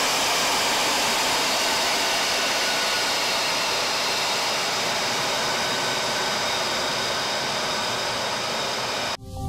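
Lockheed Martin F-35A fighter jet's engine running: a steady rushing roar of jet noise with faint high whining tones, cut off abruptly just before the end.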